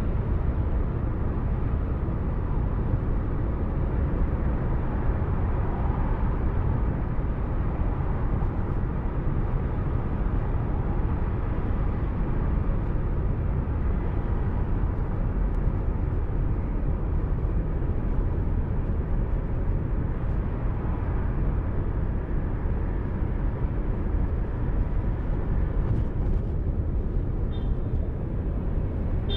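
Steady road and engine noise of a moving car recorded by a dashcam, a constant low rumble. A few faint short high chirps sound near the end.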